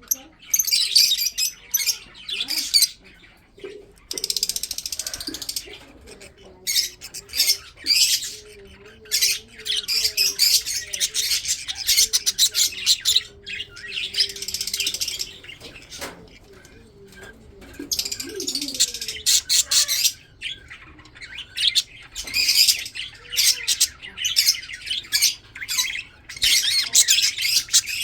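Budgerigars chirping and chattering in quick, overlapping bursts, broken by a few short lulls.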